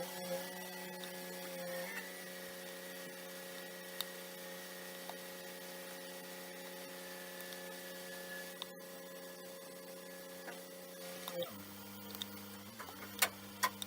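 Scania truck's diesel engine running at raised revs to drive the loader crane's hydraulic pump, a steady even hum. About eleven and a half seconds in it drops to a lower pitch as the revs fall back.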